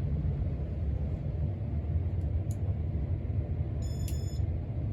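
1987 Casablanca Zephyr ceiling fan running with a steady low hum and whoosh from its motor and blades. About four seconds in, its IntelliTouch control gives one short electronic beep as the fan is switched to speed 4.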